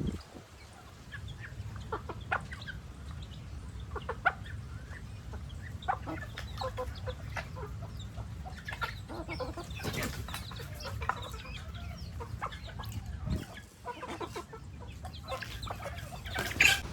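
Chickens clucking: many short, scattered calls over a low steady rumble, with one louder burst near the end.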